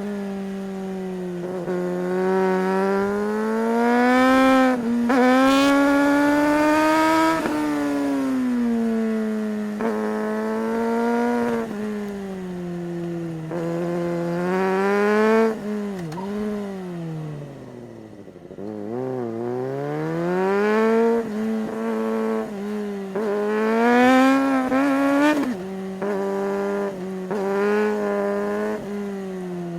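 2008 Suzuki GSR 600's inline-four engine pulling hard through the gears. The pitch climbs steadily and then drops abruptly at each clutchless quickshifter upshift, several times over. About halfway through it falls to low revs before pulling up again.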